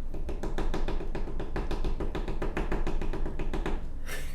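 Rapid, even tapping or knocking, about eight or nine knocks a second, starting just after the beginning and stopping shortly before the end.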